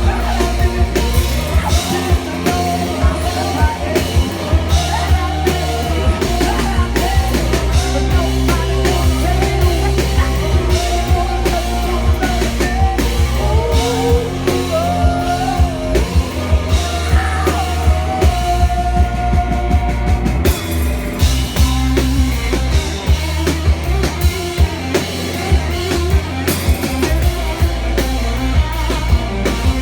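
Live rock band playing: a drum kit keeping a steady beat under heavy bass, with a sung lead voice.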